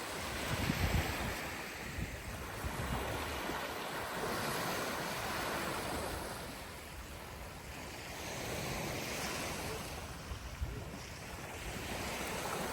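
Sea waves washing onto a beach, the surf swelling and fading every few seconds. Wind gusts on the microphone rumble about a second in.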